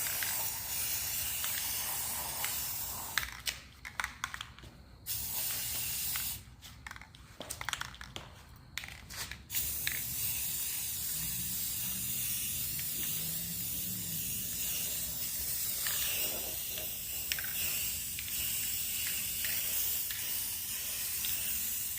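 Aerosol spray paint can spraying: a steady hiss, broken into a few short bursts and gaps, then a long continuous spray for the second half.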